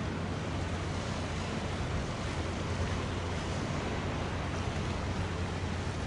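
Steady outdoor noise of wind and sea water with no sudden events, over a constant low hum.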